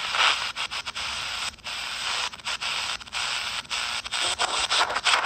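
Static hiss from the loudspeaker of a 4732 miniature shortwave radio, cutting out briefly again and again, with no station coming through: the poor reception the set gives on its shortwave bands.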